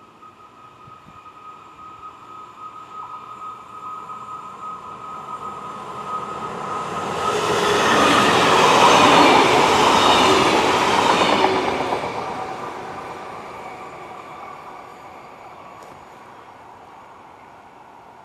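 Double-deck TER passenger train passing at speed: a steady high ringing from the rails as it approaches, the rush of wheels on rail growing to its loudest about eight to eleven seconds in as the coaches go by, then fading away.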